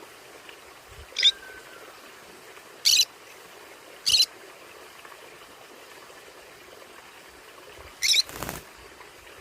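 Conure giving four short, shrill calls at irregular intervals, with a brief burst of noise right after the last call.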